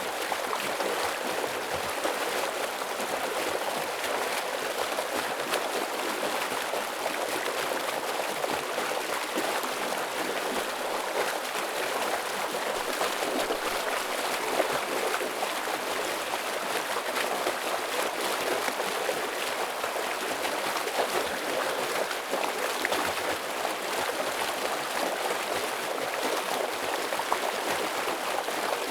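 Fast-flowing stream of water rushing and splashing over rocks, a steady dense rush with fine bubbling detail.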